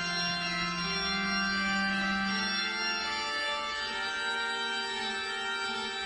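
Organ music: slow, sustained chords, each held for a second or two.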